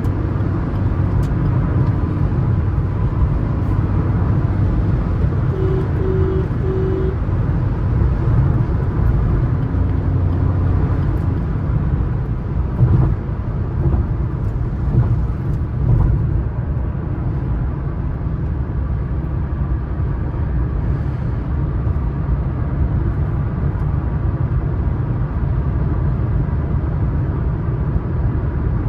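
Steady drone of a Suzuki S-Cross 1.3 DDiS diesel cruising at highway speed, with engine and road noise mostly low-pitched. Three short tones sound about six seconds in.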